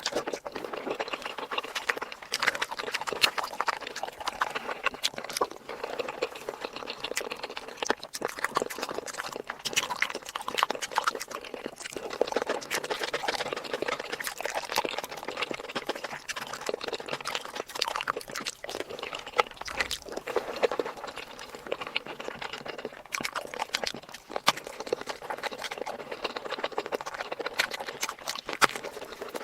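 Close-miked eating sounds: a person chewing food with many quick, irregular mouth clicks and smacks.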